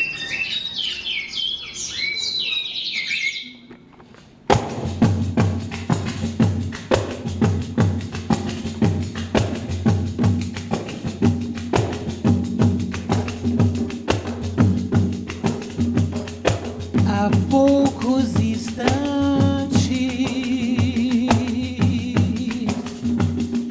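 Birdsong chirps for about three seconds, then a short hush before an ensemble of pandeiros starts a fast, steady rhythm of deep slaps and jingle rattles. A melody line joins over the drumming in the last few seconds.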